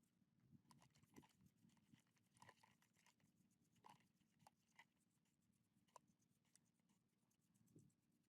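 Near silence, with faint scattered taps and clicks.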